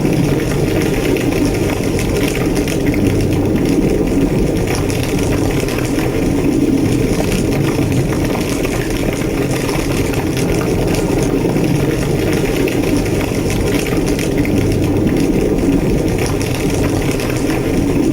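A large structure fire burning steadily: a continuous low roar with constant fine crackling.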